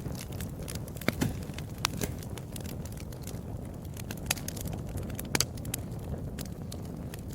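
Wood fire crackling: irregular sharp pops and snaps over a steady low rumble of burning, with the loudest snaps about a second in and again past the five-second mark.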